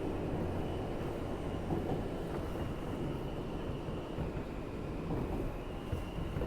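Inside an R160B subway car: the train's steady low rumble and hum, with a faint high whine that fades in and out.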